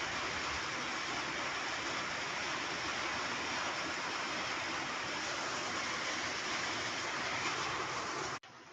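Rain falling steadily, an even hiss. It cuts off suddenly near the end.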